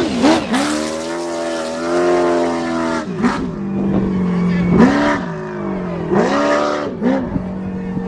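Off-road race truck engine revving hard several times, its pitch rising and falling in repeated blips with held notes between them. Short bursts of noise come along with the revs.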